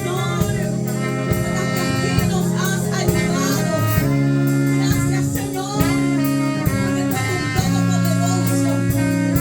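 Live praise-and-worship band music with a steady beat, sustained low notes and a melodic lead line.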